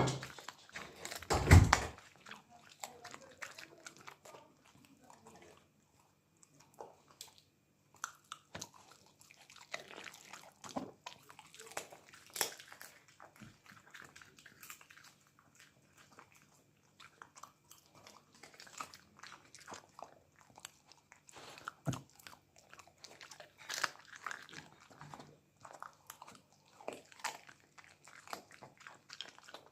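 A dog chewing and crunching on chicken, with irregular crunching bites throughout and a louder burst of noise in the first two seconds.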